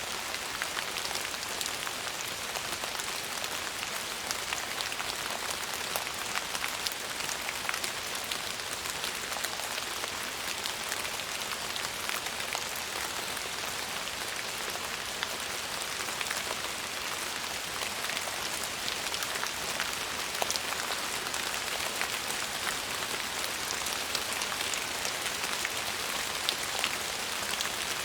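Steady rain falling on a surface: an even hiss, strongest in the upper range, with many small drop ticks and no thunder.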